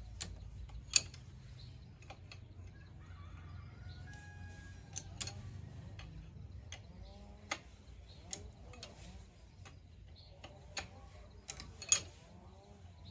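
Irregular sharp clicks and taps at uneven intervals, the loudest about a second in and again near the end, over a faint low hum.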